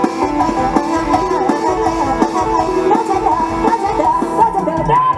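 Mor lam sing band music played loud through a PA: a plucked-string melody over held drone notes, with a steady drum beat about twice a second.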